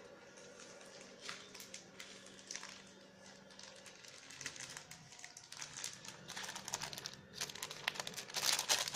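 Faint rustling and crinkling with light clicks, as meat masala is added from its packet to the marinade. A louder spell of dense crinkling comes in near the end.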